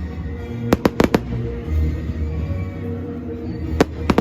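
Fireworks going off in sharp cracking bangs: four in quick succession about a second in, then two more near the end.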